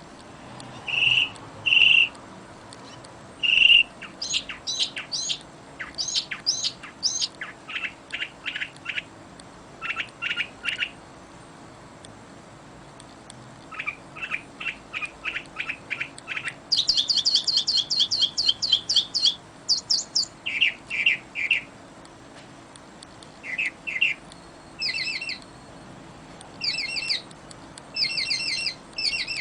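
Songbirds singing: a run of varied phrases, each a quick series of high, repeated chirps or trill notes, following one another with short pauses.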